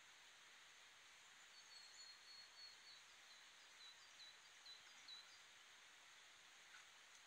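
Faint steady hiss with a small bird giving a run of short, high chirps, about two or three a second. The chirps start about a second and a half in and stop around five seconds in.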